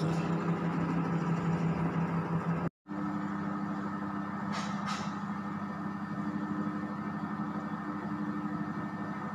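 Microwave oven running: a steady electrical hum with its fan, broken off once by a sudden cut about a third of the way in and then going on. Two faint ticks come near the middle.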